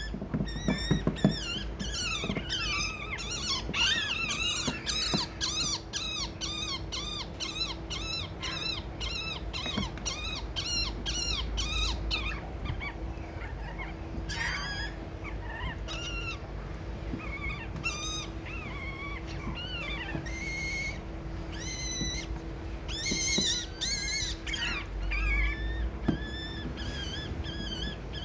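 Baby birds chirping in rapid, repeated high-pitched calls, dense for the first dozen seconds and more scattered after that, over a steady low hum.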